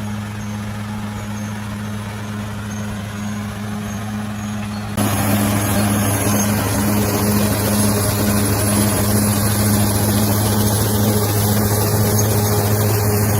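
Heavy bulldozer's diesel engine running steadily with a deep, even hum. About five seconds in the sound jumps abruptly louder and harsher, then holds steady.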